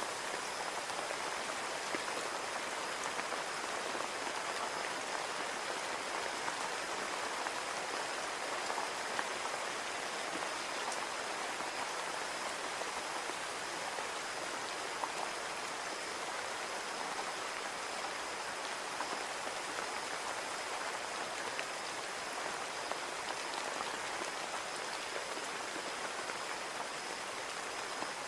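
Steady rain falling on a window, an even hiss with many small drop ticks scattered through it.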